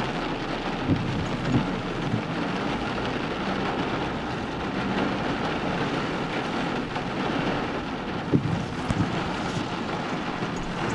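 Steady rushing noise from a car being driven on wet ground, with a few dull thumps about a second in and again near the end.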